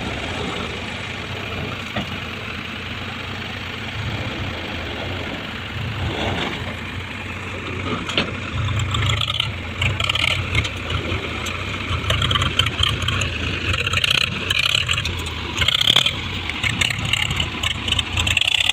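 Diesel engine of heavy farm or earth-moving machinery running steadily, with irregular louder bursts of higher-pitched noise in the second half.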